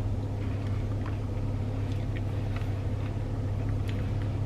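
A steady low hum with a few faint, scattered clicks and taps over it, such as small eating and handling noises.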